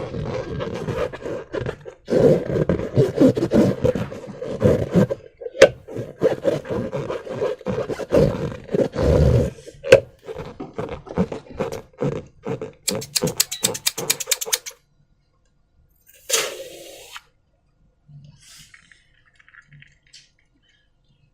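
Slime and rubber balloons being handled, squeezed and rubbed, with squelching and rubber scraping. Partway through this gives way to scattered clicks, then a quick run of small evenly spaced clicks that stops suddenly. One short burst of handling follows, then faint rustling.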